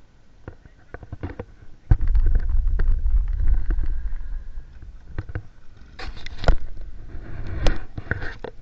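Microphone handling and wind rumble: irregular knocks and clicks throughout, with a loud low rumble that starts suddenly about two seconds in.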